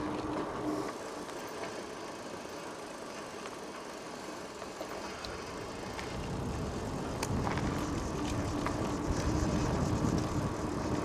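Bicycle rolling along a path: tyre noise and wind on the microphone, with scattered small clicks, growing louder with a low rumble about six seconds in.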